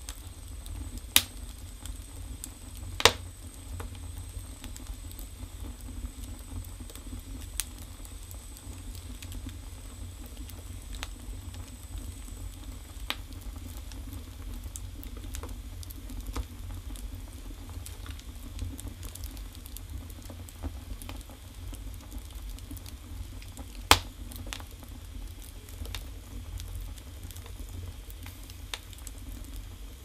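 Firewood burning in a village stove's firebox: a steady low rumble of the fire with constant small crackles and a few sharp loud pops from the logs, two in the first few seconds and one about two-thirds of the way through.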